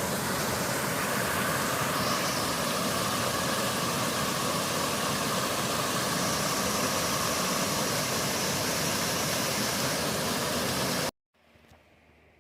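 Steady rushing noise of a waterfall pouring into its pool, cutting off suddenly near the end to a faint hiss.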